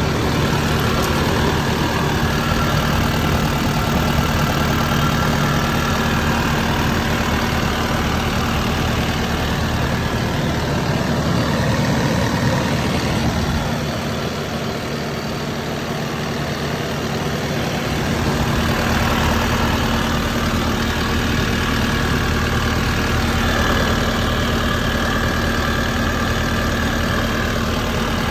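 Kubota SVL-95 skid steer's four-cylinder V3800 diesel engine running steadily. It eases off for a few seconds about halfway through, then comes back up.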